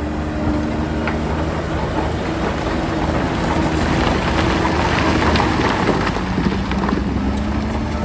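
Heavy earthmoving machinery running with a steady diesel engine note, under a dense clattering and crunching noise that grows louder toward the middle and eases off after.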